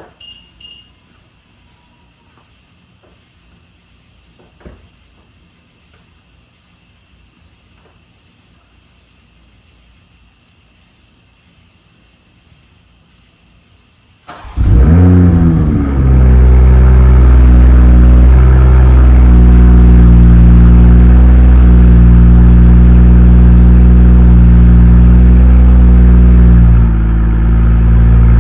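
A few faint knocks against low background, then about halfway through the 2020 BMW M340i's turbocharged inline-six starts, flares up in revs and settles into a loud, steady idle. It runs through the valved exhaust with the factory valve held open by its unplugged actuator, giving the louder sport-mode sound.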